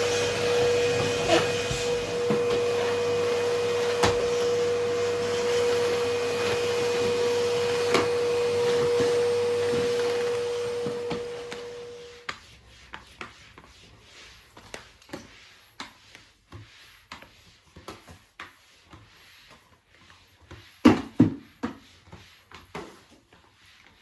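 Vacuum cleaner running with a steady whine, switched off about halfway through and winding down. Then come scattered light knocks and clicks of things being handled, with a louder clatter near the end.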